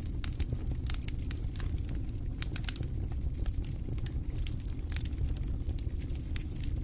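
Wood fire crackling in a fireplace: a steady low rumble of the flames with many irregular sharp pops and snaps from the burning logs.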